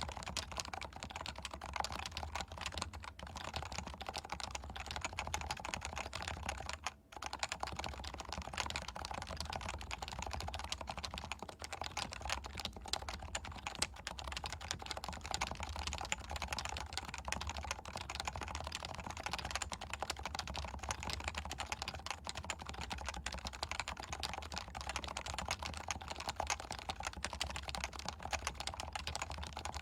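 Continuous fast typing on a Leopold FC660C keyboard with stock, non-silenced 45 g Topre electrostatic-capacitive switches, picked up by a Shure MV7 microphone. The key presses run on without a break except for a short pause about seven seconds in.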